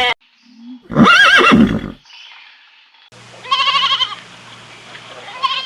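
Bleating livestock calls: one loud wavering call about a second in, then after a cut a shorter quavering bleat and a brief one near the end.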